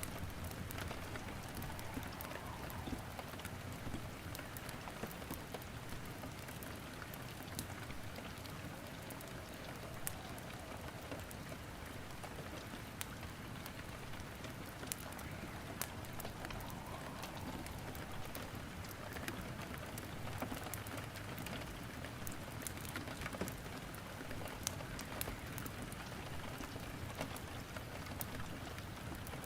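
Steady rain falling, with scattered sharp crackles and pops of burning wood in a fireplace.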